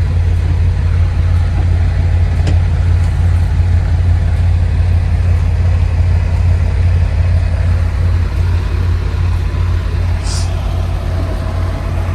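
Semi truck's diesel engine running, a steady low drone heard inside the cab, with a brief high-pitched sound about ten seconds in.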